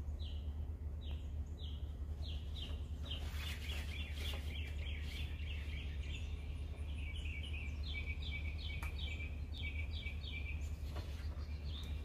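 A bird chirping: a long series of short, high chirps, spaced at first, running fast in the middle and then slowing to evenly spaced notes, over a steady low hum.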